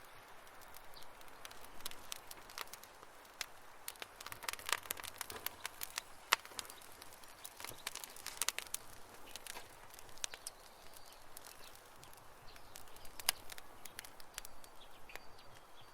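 Campfire crackling: irregular sharp pops and snaps of burning wood over a soft, steady hiss, with the loudest snaps about six seconds in and again near thirteen seconds.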